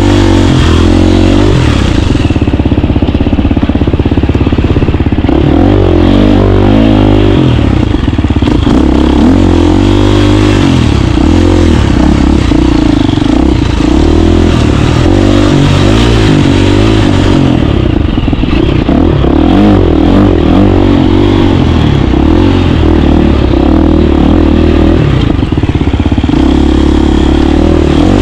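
KTM 350 dirt bike's single-cylinder four-stroke engine under way, its pitch rising and falling over and over as it is revved up and backed off on the trail.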